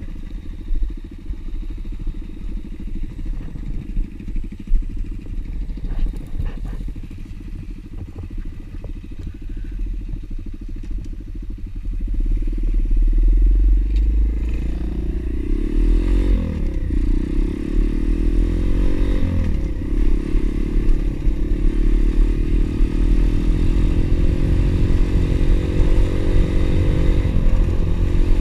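Pit bike engine running as the bike rides off along a trail. It is quieter for the first dozen seconds, with a few knocks, then louder from about twelve seconds in, the revs rising and falling.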